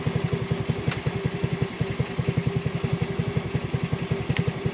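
Dune buggy engine idling with a steady, even low throb.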